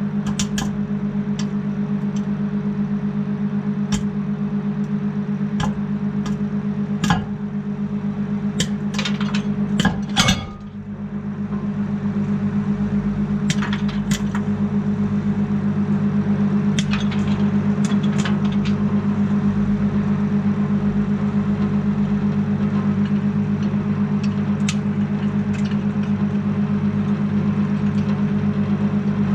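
Microwave oven running with a steady hum while popcorn kernels pop inside it: scattered sharp pops, thickest and loudest about ten seconds in, then sparser.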